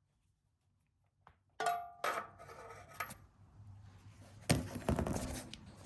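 Metallic clinks and clatter: three sharp, briefly ringing clinks between about one and a half and three seconds in, then a louder rattling clatter of metal about four and a half seconds in.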